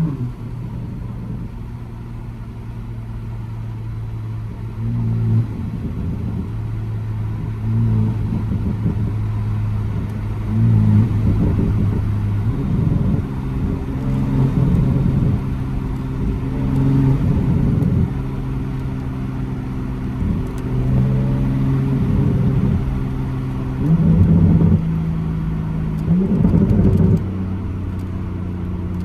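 Loud exhaust of a modified MK5 Toyota GR Supra while driving. The engine note holds steady for stretches, then changes pitch in steps several times as the revs change, and swells louder a few times in the second half.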